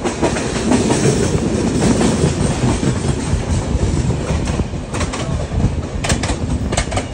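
Indian Railways passenger train running, heard from an open coach doorway: steady wheel and track rumble with clickety-clack over rail joints and points, and a few sharp clacks near the end.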